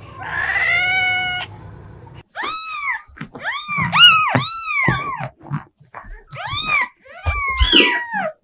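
Domestic cat meowing: one long, drawn-out meow, then after a brief pause a quick run of short, high meows, each rising and falling in pitch.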